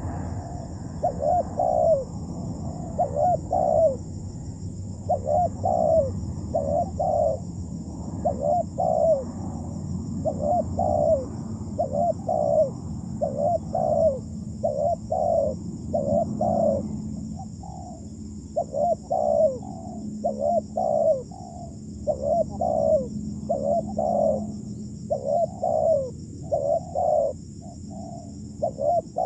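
Spotted dove (terkukur) cooing over and over, short low coo notes in quick groups following one another without a break. A faint steady high-pitched hiss runs underneath.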